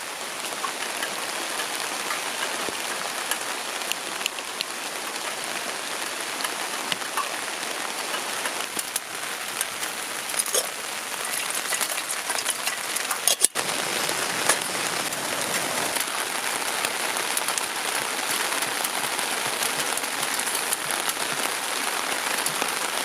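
Steady rain falling, with many small sharp drop hits through it. The sound breaks off for an instant a little past halfway.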